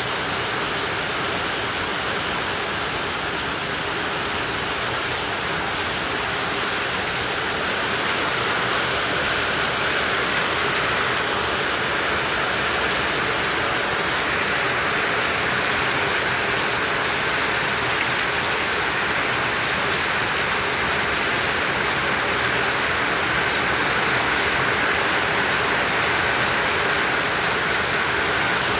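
Heavy tropical rain falling steadily, an even dense hiss that grows a little louder about eight seconds in.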